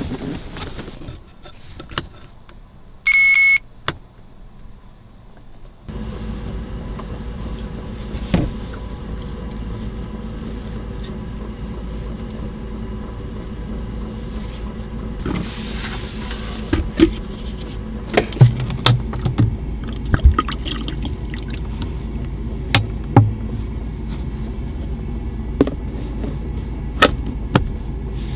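A short electronic beep, then a steady low hum with running noise that starts suddenly about six seconds in, with scattered knocks and clunks over it.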